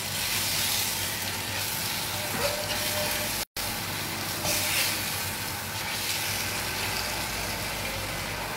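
Floured salmon portions frying in oil in a frying pan, a steady sizzle as they are turned with a spatula to form a crust. The sound cuts out for a split second about halfway through.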